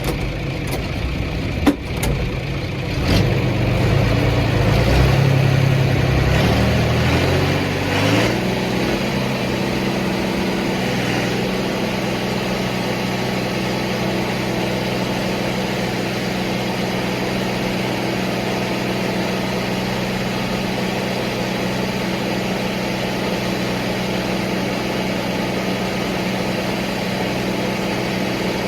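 Tractor engine whose speed rises in steps over a few seconds, then holds a steady run. A sharp knock comes about two seconds in.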